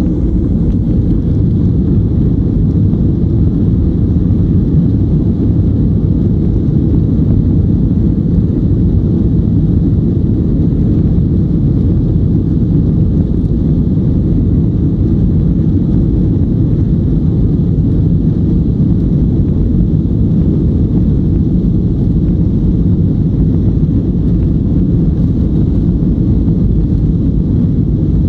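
Boeing 737-900NG's CFM56 jet engines at takeoff thrust, heard from inside the passenger cabin as a loud, steady low rumble mixed with airflow noise.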